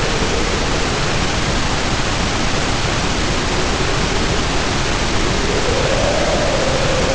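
Heavy rain pouring steadily under a howling wind. The wind's howl sinks in pitch in the first seconds and rises again near the end.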